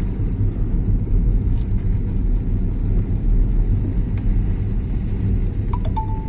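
Steady low rumble of a moving vehicle, engine and road noise mixed with wind on the microphone. A brief high tone sounds near the end.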